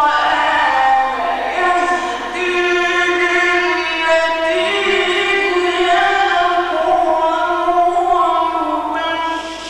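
A man's voice chanting Quran recitation in the ornamented mujawwad style, holding long notes that bend slowly in pitch.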